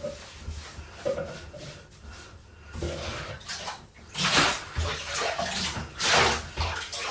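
Water pouring and splashing in a bathtub as a pet is rinsed, quieter at first and then coming in several stronger gushes in the second half.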